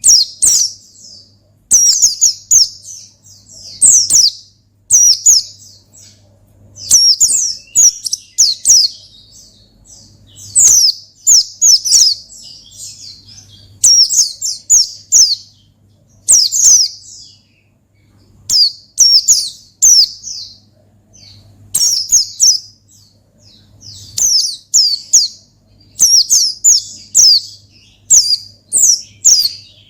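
White-eye (pleci) singing in rapid, high-pitched phrases of quick falling chirps, each about a second long and repeated with short pauses. This is the busy "gacor ngalas" song used to call up rivals and stir other white-eyes into singing. A faint steady low hum runs underneath.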